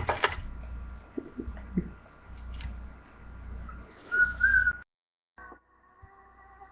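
A low rumble, then a short, slightly wavering whistled note about four seconds in. The sound cuts out abruptly just after it.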